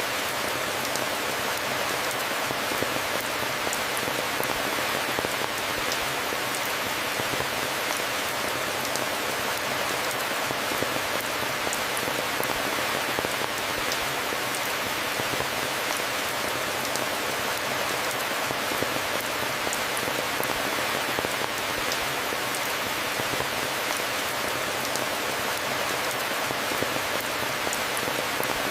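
Steady rain falling and pattering on a surface, an even hiss with many small drop ticks and no change in intensity.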